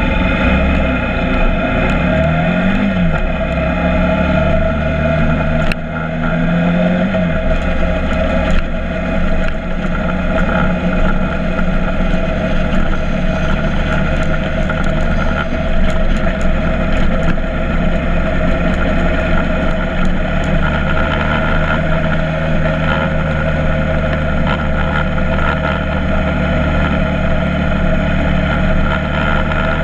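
Motorcycle engine running while riding, with a couple of short rises and falls in engine speed in the first several seconds, then a steady drone.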